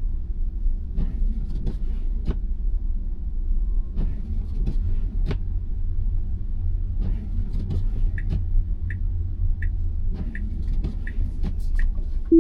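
Steady low road rumble inside a Tesla Model Y's cabin while driving on snow-covered road. From about eight seconds in, a turn-signal indicator ticks at an even pace, a little over one tick a second, as the car pulls over to the right.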